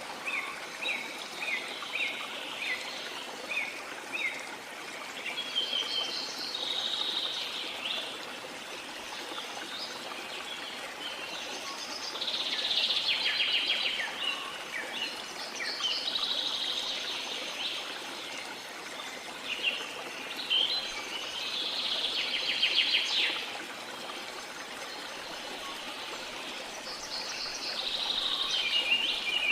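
Steady rush of a waterfall with tropical rainforest birds calling over it: a run of short chirps, about two a second, in the first few seconds, then several bursts of high trilling song.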